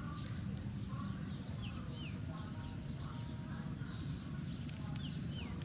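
A few short, falling bird chirps over a steady low rumble.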